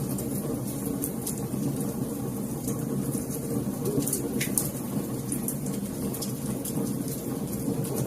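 Wood fire crackling: frequent small sharp pops and snaps over a steady low rumble of the burning fire.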